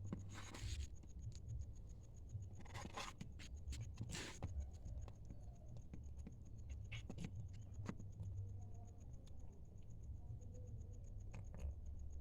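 A cat eating from a plate, heard as a few short scraping rubs in the first few seconds and scattered small clicks after, as the plate shifts and turns under its feeding.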